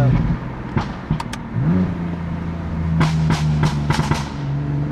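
BMW F80 M3's twin-turbo S55 inline-six running under way in the cabin. It eases off at first, then the revs climb about a second and a half in and hold steady. Several sharp cracks come near the end.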